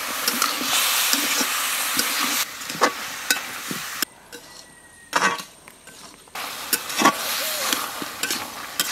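Cubed bottle gourd and potatoes sizzling in hot mustard oil in a kadai, stirred with a spatula that scrapes and knocks against the pan now and then. The sizzling drops out abruptly about four seconds in and comes back about two seconds later.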